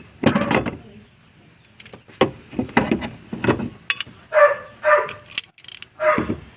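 A few sharp mechanical clicks and knocks, then a dog barking a few times in the second half.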